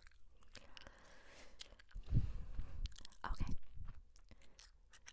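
Chewing gum worked close to the microphone: a run of small wet clicks and smacks, with heavier chews about two seconds in and again about a second later.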